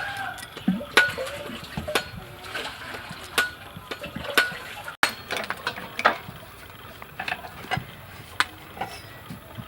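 Kitchen utensils knocking and clinking against dishes, irregular sharp strikes about once a second, some ringing briefly like metal on a bowl.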